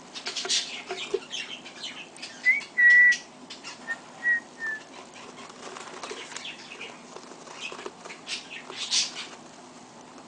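Pet baby birds fluttering and scrabbling, with scattered short scratchy clicks and rustles. A few brief, clear, high peeps come about two to five seconds in.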